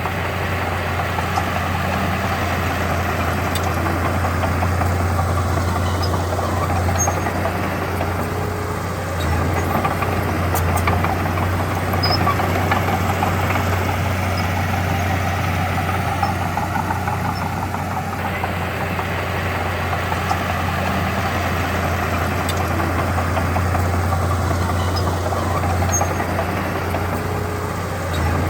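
Heavy-equipment diesel engine running steadily, with a low hum that swells and eases every several seconds.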